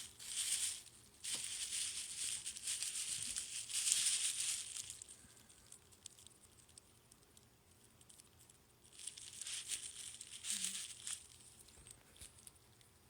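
Crinkling and rustling of packaging being handled, in two stretches: through the first five seconds and again about nine seconds in.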